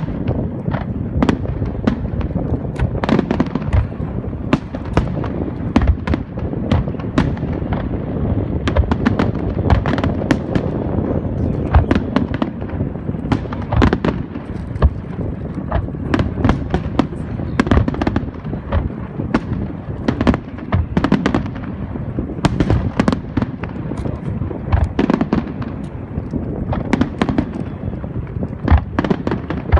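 Fireworks display: a dense, unbroken string of shell bursts, booms and crackles, many each second, over a continuous rumble.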